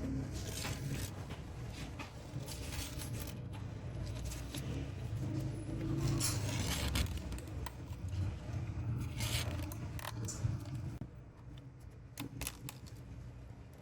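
Irregular scraping and clicking from hand work, the strokes coming unevenly and thinning out near the end.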